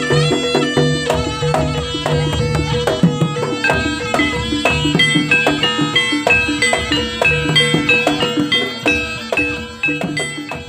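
Jaranan music: a slompret, a Javanese double-reed shawm, plays a stepping melody over fast kendang drumming, with a steady held tone underneath. The music fades down near the end.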